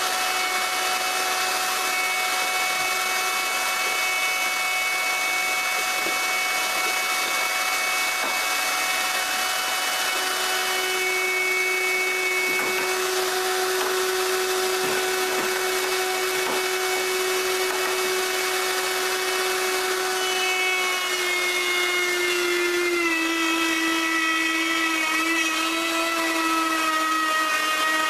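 Router running steadily while its bit cuts wood, a continuous motor whine over the cutting noise. Near the end the whine drops in pitch in small steps as the motor slows under load.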